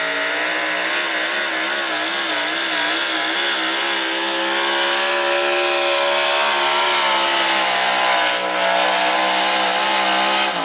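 Modified pulling truck's engine running flat out as it drags the weight sled down the pull track. Its pitch wobbles up and down in the first few seconds, then holds steady and climbs a little. The revs drop away sharply at the very end as the throttle comes off.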